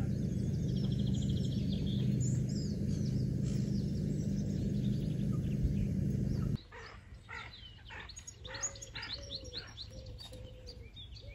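Small birds singing and chirping over a loud, steady low rushing noise, which stops abruptly about two-thirds of the way through. After that the birdsong carries on, quieter: rapid chirps and short repeated calls.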